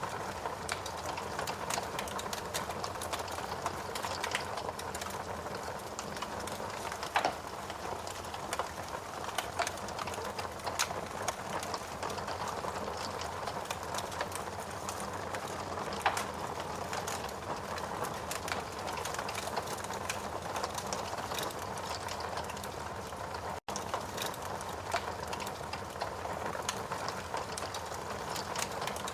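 Steady rain with a wood fire crackling over it, sharp pops and snaps scattered irregularly throughout. The sound cuts out for an instant about 24 seconds in.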